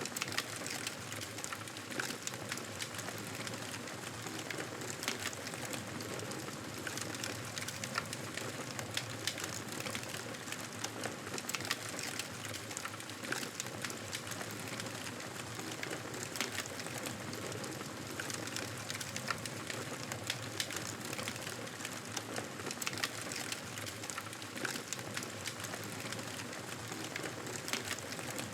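Fireplace fire crackling, with frequent small pops and snaps over a steady hiss.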